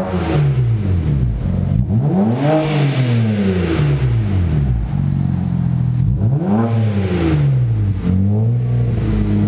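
BMW 335i turbocharged straight-six revved from idle three times through an HPF 3.5-inch stainless steel Gen 2 exhaust; each rev climbs and falls back to idle.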